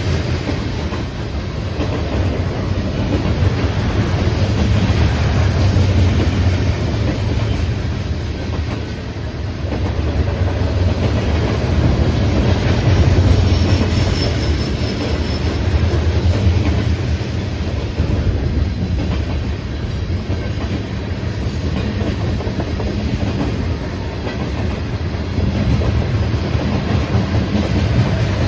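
Train rolling past at close range: a steady low rumble with the steel wheels clattering continuously over the rails.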